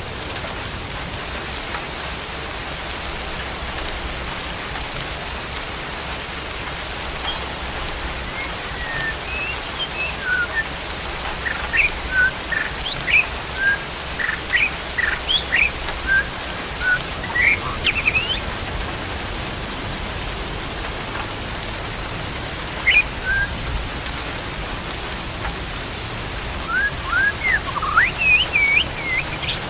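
A small songbird chirping in short, scattered whistled notes, in flurries from about a quarter of the way in and again near the end, over a steady hiss of rain.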